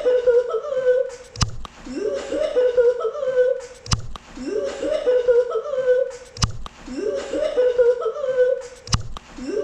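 A short high-pitched laughing sound clip played on a loop, repeating about every two and a half seconds: each time a voice-like tone glides upward and then wavers in steps, with a sharp knock in every cycle.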